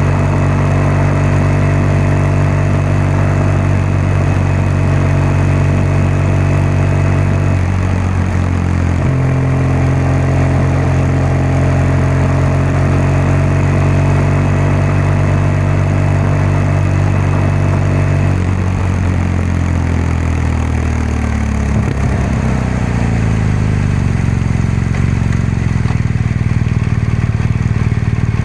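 BMW R1200GS flat-twin engine and exhaust running under way at steady revs, with a short break and change in pitch about eight seconds in, like a gear change. From about two-thirds of the way through the revs drop and the pitch slides down, settling lower near the end.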